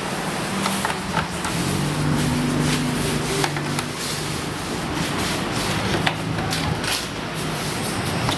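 Small clicks and handling noise as batteries are fitted into a toy RC dump truck's battery compartment, over steady background noise with a low hum in the middle.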